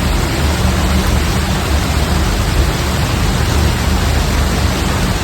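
Steady, loud hiss of heavy driving rain, with a low rumble underneath.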